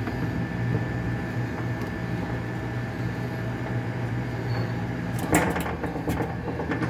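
Pliers clicking and scraping against the dishwasher's water-inlet valve as the clogged inlet filter screen is pulled out, a few sharp clicks about five and a half seconds in and more shortly after. The filter is blocked with dirt, which is the cause of weak rinse water. A steady low hum runs underneath.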